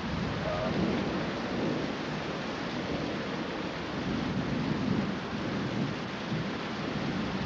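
Thunderstorm: steady heavy rain falling, with low thunder rumbling that swells and fades beneath it.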